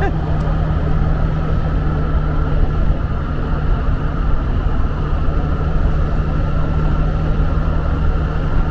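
Motorbike engine running steadily at cruising speed, with wind and road noise from riding.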